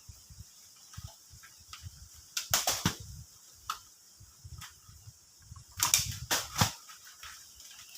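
Gusting wind rumbling on the microphone, with two spells of sharp crackling rustle, the first around two and a half seconds in and a louder one about six seconds in.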